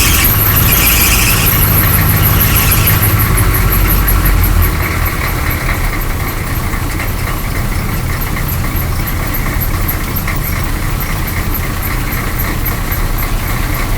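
6.2-litre V8 diesel of a 1986 Chevrolet K30 M1008 truck running just after a cold start: louder for the first few seconds, then settling to a lower, steady idle about five seconds in. A high-pitched chirp repeats rapidly and evenly over the engine.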